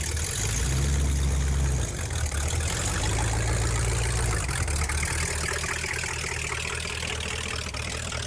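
A 1969 Chrysler Newport's 383 big-block V8 running at idle, its low note stepping up and down every second or two.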